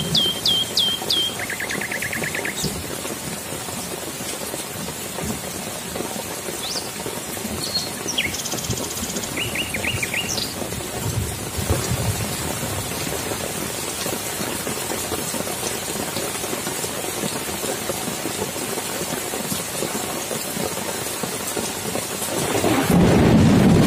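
Steady rain pouring onto wet ground and foliage. A few short bird chirps and trills come in the first half, and a low rumble of thunder swells up near the end.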